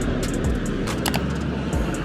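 Car engine rumbling low and steady, with music playing over it and short sharp ticks or pops on top.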